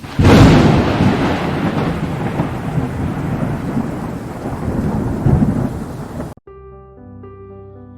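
Thunderstorm: a sudden loud crack followed by dense rain-like rushing with rolling low rumbles, which cuts off abruptly about six seconds in. Soft music with held notes then begins.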